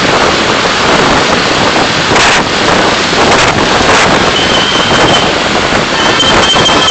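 A car driving, heard through its dashcam: steady loud road and wind rush. A thin, high, steady tone comes in about four and a half seconds in and again near the end.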